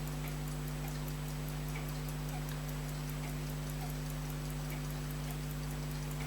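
Steady low electrical hum with a faint, fast, regular ticking over it, about four or five ticks a second, as of a running timepiece.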